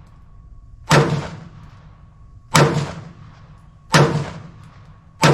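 Four gunshots from a firearm, one every second and a half or so, each followed by a short fading tail.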